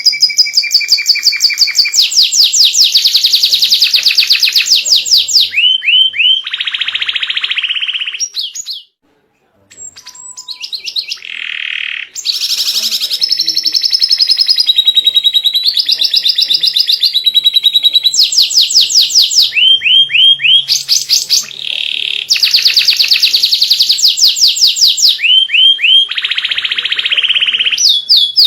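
White canary singing loudly in long, rapid trills and rolls, phrases repeating, with a short break about nine seconds in.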